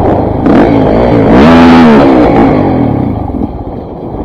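KTM 400 MXC's four-stroke single-cylinder engine revving up and back down under the rider, then dropping off to a lower, weaker note near the end. It is bogging as the tank runs dry.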